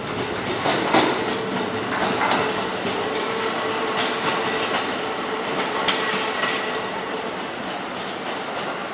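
Kintetsu 12200 series limited express electric train rolling slowly over station pointwork, its wheels clacking irregularly over rail joints and crossings above a steady running rumble and a faint whine.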